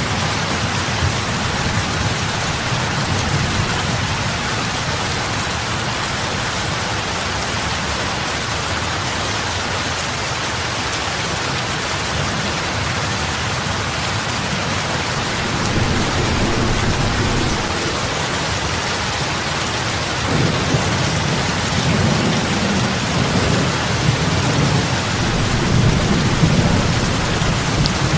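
Heavy rain falling on lake water: a steady, dense hiss of drops splashing on the surface. Low rumbling swells rise under it about halfway through and again in the last third.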